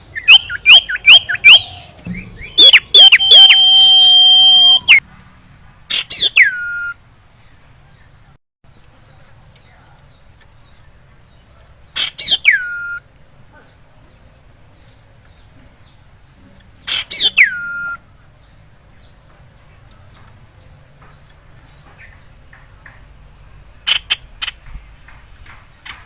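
Common iora (sirtu, or cipow) calling: a quick run of sharp downward-sliding whistles, then one long held whistle. After that come single downward-slurred whistles every five or six seconds, and a few short chips near the end.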